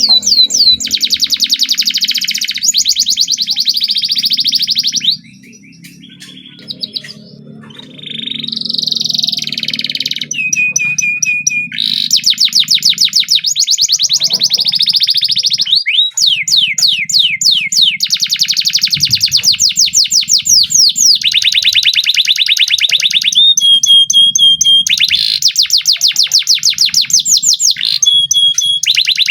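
Domestic canary singing long rolling trills: rapid runs of repeated notes broken by a few short held whistled notes, with a quieter pause of a couple of seconds about five seconds in.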